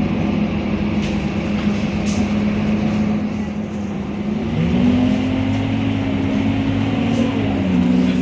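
Scania K230UB city bus's diesel engine running under way, a steady drone whose pitch steps up about halfway through as it pulls harder, then dips briefly near the end.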